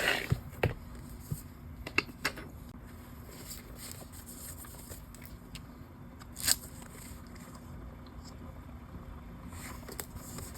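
Paper stickers being handled and placed on journal pages: light paper rustles and scrapes with a few sharp taps and clicks, the loudest a little past halfway.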